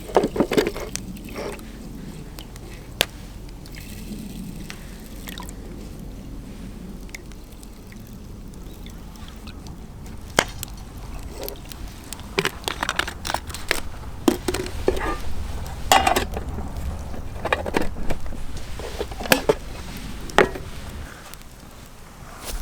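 Scattered clinks and knocks of cooking gear being handled, with liquid pouring and sloshing, over a steady low rumble. The knocks come sparsely at first and more often from about halfway through.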